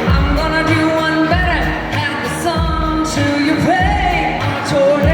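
Live country band performance: a sung vocal line with gliding notes over a band accompaniment, driven by a regular low drum beat.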